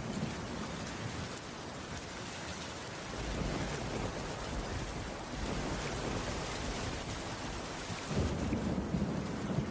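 Steady rain falling on a wooden cabin roof, with a low rumble swelling up about three seconds in and again near the end.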